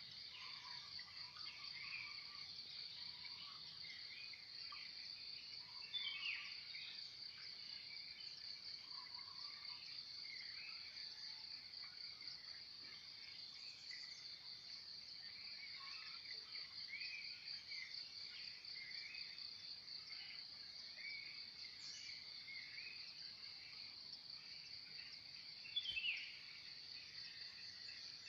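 Morning dawn chorus: many birds chirping and singing over a steady, high, fast-pulsing insect trill. Two bird calls stand out louder, about six seconds in and near the end.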